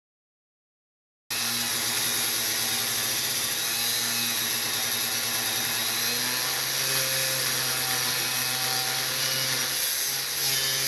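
Angle grinder with an abrasive cutoff wheel cutting steel, running steadily; the sound comes in about a second in.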